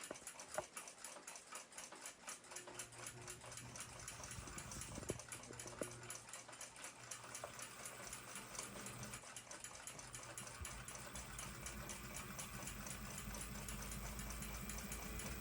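Small lathe motor running faintly while the riveted brass bushing plug is machined. The low hum starts a couple of seconds in and builds slightly.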